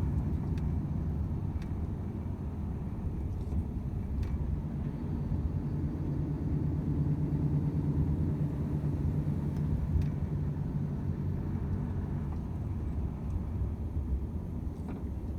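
Volvo FH 500 truck's 13-litre inline-six diesel engine running under way, with road noise: a steady low drone holding a constant pitch, plus a few faint clicks.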